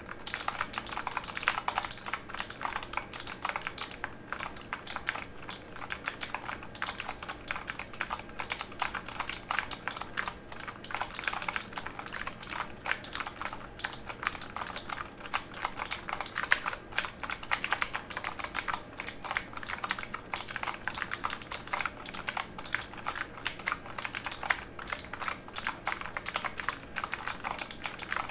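Mechanical keyboard being typed on quickly and continuously, a dense stream of sharp key clicks.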